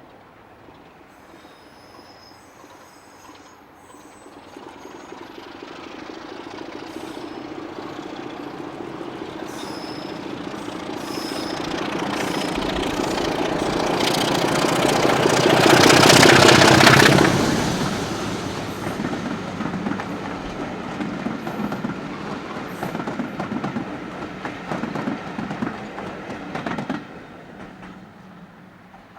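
A train passing close by on a heritage railway. It builds over about ten seconds to its loudest about 16 seconds in, then the carriages rattle past and the sound drops away suddenly near the end.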